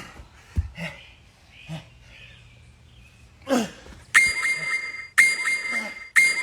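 Hard exhalations and grunts from exertion, then three electronic beeps about a second apart, each sharp-edged and about a second long: an interval timer marking the change of interval.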